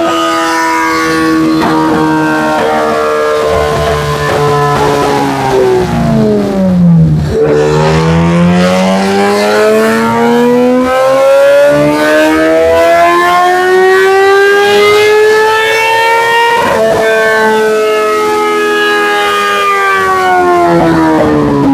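2013 Kawasaki ZX-10R inline-four with a full Graves exhaust running hard on a dynamometer. The revs sink for several seconds, then climb steadily for about ten seconds in a pull. There is a sharp break, after which the engine slowly winds down and falls off steeply near the end.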